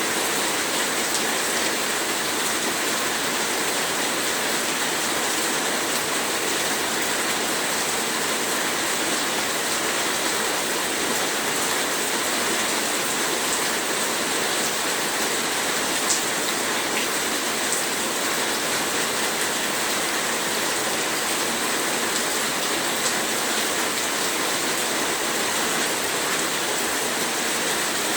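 Heavy rain falling in a steady, unbroken hiss, with a few faint individual drop ticks.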